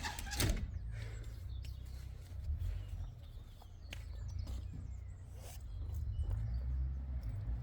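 A sharp thunk of wood being struck about half a second in, followed by light knocks and scuffs of wood handling, with faint bird chirps and a low steady rumble in the background.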